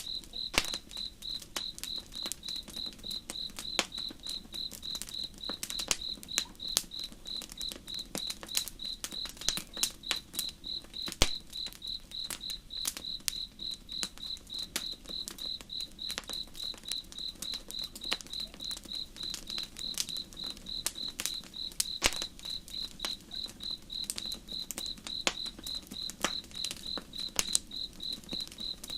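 Cricket chirping in a rapid, even pulse, with campfire crackles and sharp pops scattered throughout and a faint low rush underneath.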